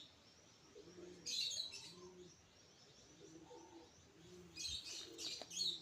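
Pet cockatiels chirping faintly: a few short high chirps about a second in, then several more near the end.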